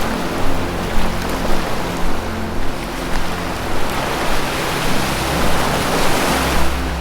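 Ocean surf washing in, swelling to a louder wave about two-thirds of the way through, over low held tones of ambient music.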